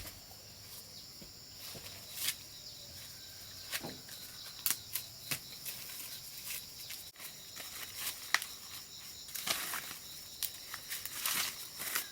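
A steady, high insect chorus, with scattered short rustles and sharp snaps over it, the loudest snap about eight seconds in.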